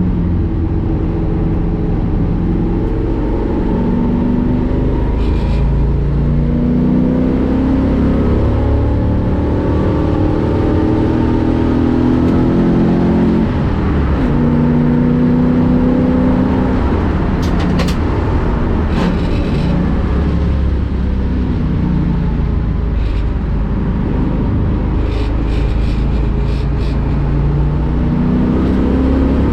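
1965 Ford Mustang race car's V8 engine at full race pace, pitch climbing again and again as it accelerates and dropping at each gear change and braking zone.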